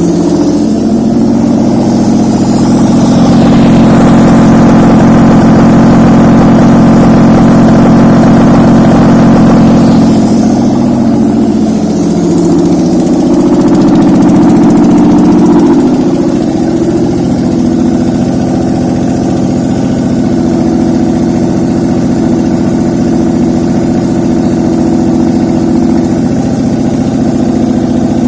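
Mitsubishi 6G72 3.0-litre V6 running on an engine test stand. Its speed is raised and held twice, from a couple of seconds in and again around the middle, and it then settles to a steady idle.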